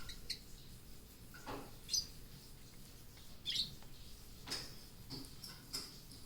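Small pet parrots chirping: short, high chirps scattered every half second to a second or so.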